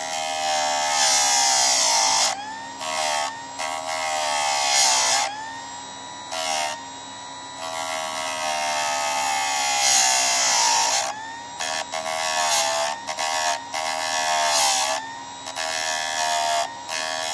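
Chicago Electric electric chainsaw sharpener running: a high motor whine with a bright grinding hiss as the wheel is worked against a chain tooth in several short passes. The whine sags in pitch each time the wheel bites, and the hiss drops away between passes.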